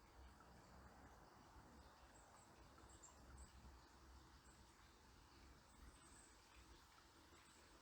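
Faint, steady murmur of a river, with a few very high, thin bird calls scattered through it.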